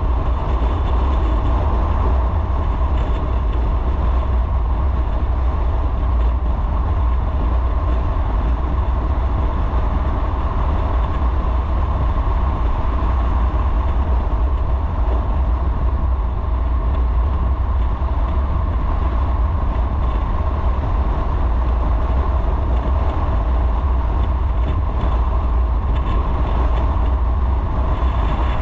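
Motorcycle riding at a steady pace: engine and road noise with a heavy low rumble that stays even throughout.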